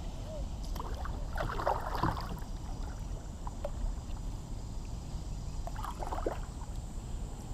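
Kayak paddle working the water: two short spells of splashing and dripping, about a second in and again near six seconds, over a steady low wind rumble.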